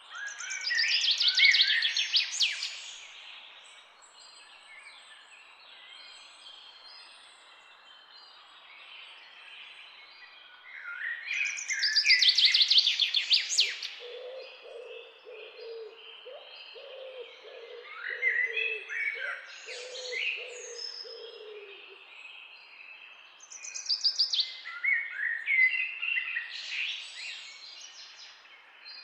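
Small birds chirping and singing in loud bursts of rapid high trills, four times, with quieter chatter between, and a lower repeated pulsing call through the middle.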